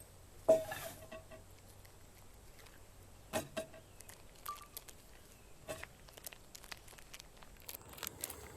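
A few sharp clinks and knocks of cookware and utensils being handled. The loudest comes about half a second in and rings briefly; two lighter ones follow a few seconds apart.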